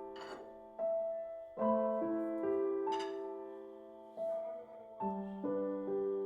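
Soft background piano music: slow chords, each struck and left to fade.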